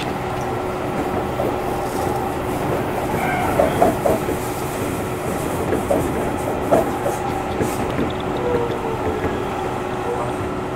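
Tobu Railway electric train running at speed, heard from inside the car: steady rolling noise and a constant hum, with a few wheel clicks over rail joints around the middle and a faint squeal from the wheels.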